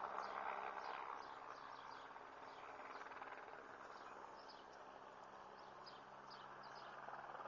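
Faint bird chirping: many short, quick high calls scattered throughout, over a faint steady low hum.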